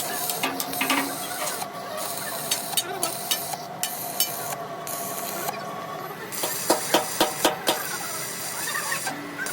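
Workshop noise during heavy steel fabrication: scattered sharp knocks and taps over a steady hiss and hum, with a quick run of about seven strikes around two-thirds of the way through.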